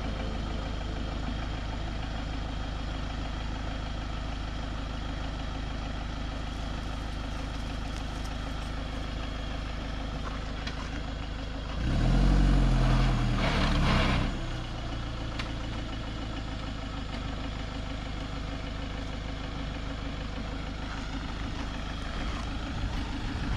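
Vehicle engine idling steadily, growing louder for about two seconds roughly halfway through before settling back.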